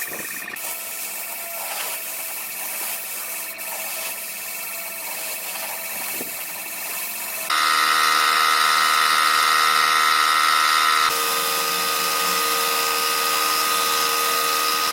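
A small electric power tool motor running at a steady speed. The sound jumps abruptly louder and higher about halfway through, then shifts again a few seconds later.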